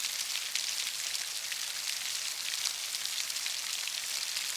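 Heavy rain falling steadily: a dense, even hiss of drops with many tiny sharp ticks, strongest in the high range.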